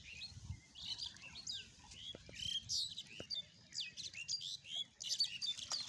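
Birds chirping: a dense run of short, high chirps and whistles, some rising and some falling in pitch.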